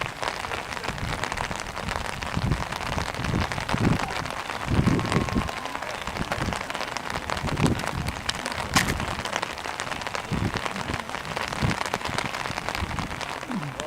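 Steady outdoor hiss with irregular low rumbling gusts, and one sharp click about nine seconds in.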